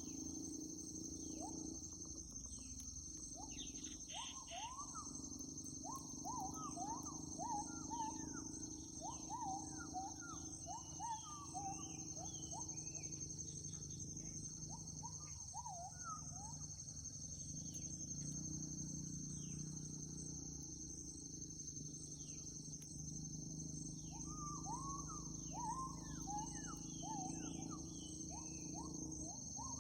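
Morning wildlife chorus: a steady, high insect drone runs throughout, with bird chirps and monkey calls over it. The monkey calls come as runs of short rising calls, first for about ten seconds near the start and again near the end.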